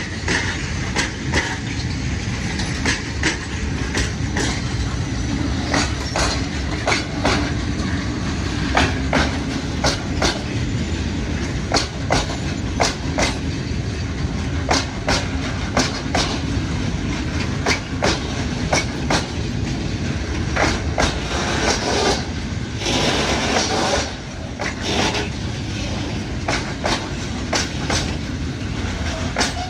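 Freight train of open-top wagons rolling past slowly: a steady low rumble of wheels on rail, broken by repeated sharp clicks as the wheels cross the rail joints, one or two a second.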